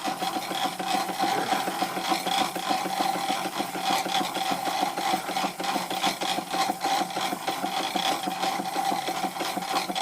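Stuart Victorian model steam mill engine running steadily with a fast, even beat, driving the moving parts of a Wilesco fairground model. The boiler's gas burner has just been turned off, so it is running on the remaining steam.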